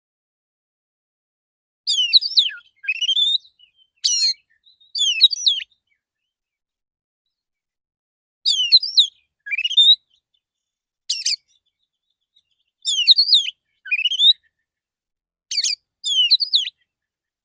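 Male oriental magpie-robin (kacer) singing a relaxed song: short phrases of clear whistled notes and rising sweeps, each a second or so long, separated by silent pauses. The song is used as a lure to call other magpie-robins.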